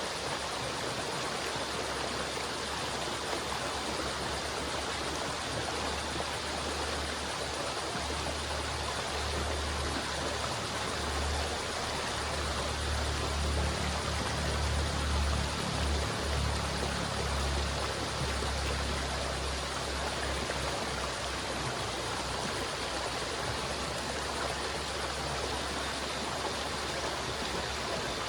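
River water flowing steadily, a continuous rushing sound, with a deeper rumble that swells for several seconds around the middle.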